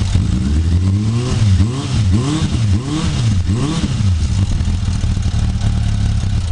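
Suzuki Bandit inline-four motorcycle engine running through a new Beowulf aftermarket exhaust with its baffle fitted. It is blipped several times in quick succession, then settles back to a steady idle.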